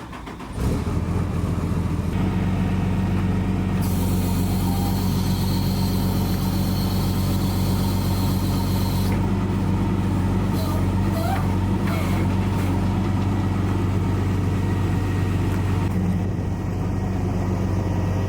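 Tow truck engine comes in loud about half a second in and runs steadily, pulling down on the cylinder to tighten its nut. A hiss of air joins it for about five seconds in the middle.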